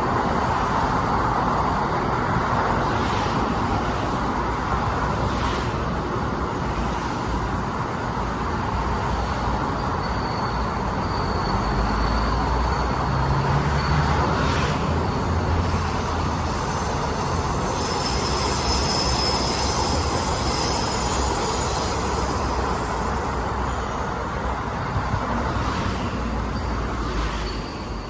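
A train running along the track: a steady rumble and rail noise with a few faint knocks, and a thin high whine that comes and goes above it.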